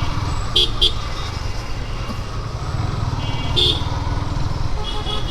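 Motorcycle on the move: a steady low rumble of engine and wind. Two short, quick horn toots come about half a second in and another a little past the middle.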